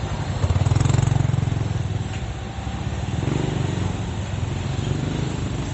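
Motorbike engines passing close in street traffic: one swells up and is loudest about a second in, and another passes about three to five seconds in.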